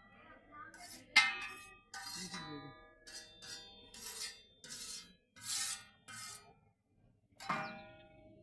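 Metal cooking utensils clinking and scraping at an egg-roll stall: a string of sharp strikes between short scraping sounds. Two of the strikes, about a second in and near the end, ring on with a clear tone.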